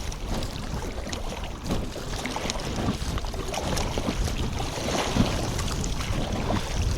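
Wind buffeting the microphone in a steady low rumble, with waves slapping and splashing against a small boat on choppy water.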